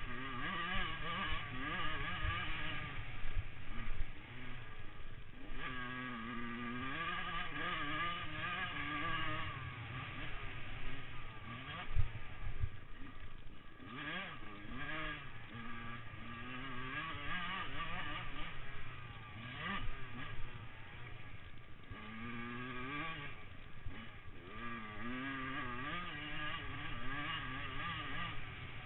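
Motocross motorcycle engines revving, their pitch repeatedly climbing and dropping as they accelerate and shift, with a sharp knock about twelve seconds in.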